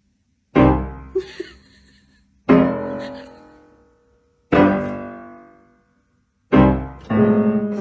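Piano chords struck four times, about two seconds apart, each ringing out and fading, with faster playing starting just before the end.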